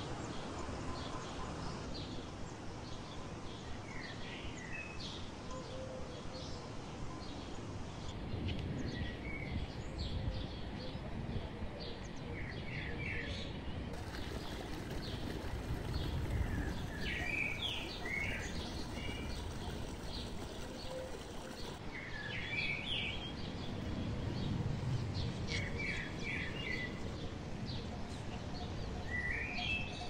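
Small birds chirping and calling on and off, in short rising and falling whistled notes, over a steady low rushing background.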